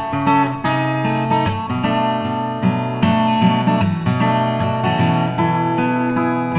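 Background music: acoustic guitar strummed in a steady rhythm, with chords changing every second or so.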